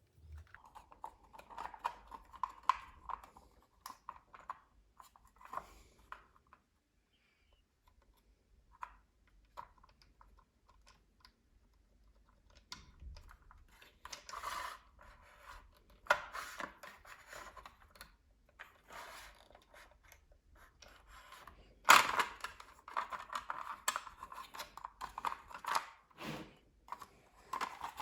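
Hands working with small tools and parts at close range: irregular clicks, scraping and rubbing in bursts, with a pause about a quarter of the way through and a sharp click a little over three-quarters of the way in.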